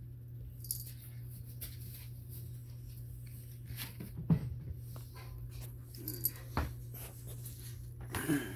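Pet cats making a few short sounds, about four seconds in, around six seconds in and again near the end, with scattered small clicks and taps over a steady low hum.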